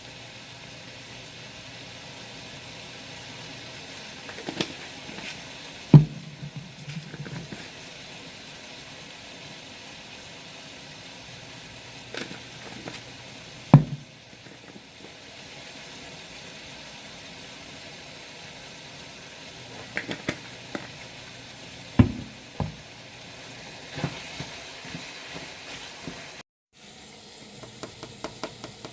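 A steady hiss with a handful of sharp knocks and smaller clicks scattered through it, the loudest about six and fourteen seconds in and a close pair about twenty-two seconds in. The sound cuts out for a moment near the end.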